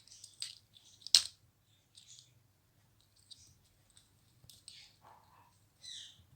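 Ringneck parakeet's beak clicking and tapping on its toys: scattered light clicks with brief scratchy sounds, and one sharp click about a second in is the loudest.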